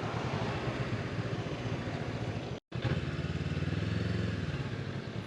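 Honda motorcycle engine running at low speed, with road and wind noise. About halfway there is a momentary gap, after which the engine settles into a steadier low hum as the bike slows.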